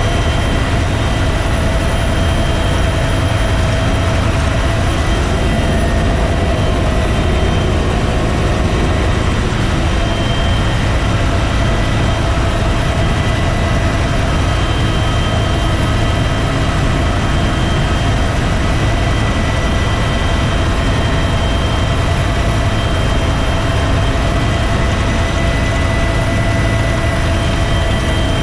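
Bell UH-1 Huey helicopter running: a steady turbine whine with a few fixed high tones over a dense, deep rotor and engine rumble, unchanging throughout.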